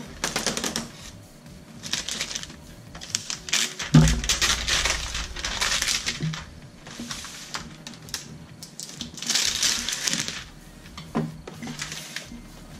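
Packaging of a boxed Traxxas E-Revo RC monster truck being handled and opened: rustling and scraping in short irregular bursts, with a thump about four seconds in.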